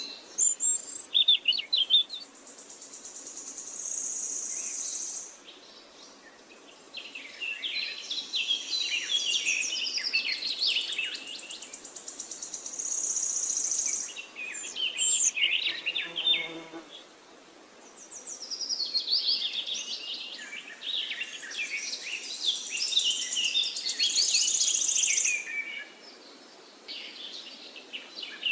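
Mixed wild birdsong: several birds chirping and trilling in fast, overlapping phrases that come in spells with short lulls between. A high, steady insect-like buzz comes and goes three times.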